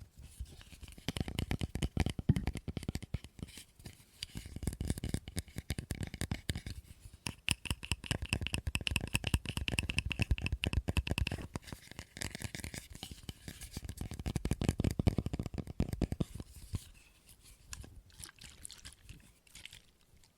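Rapid ASMR tapping on a hard object, many quick taps a second, in bursts with short pauses. In the middle stretch the object rings with a high tone under the taps. The taps thin out near the end.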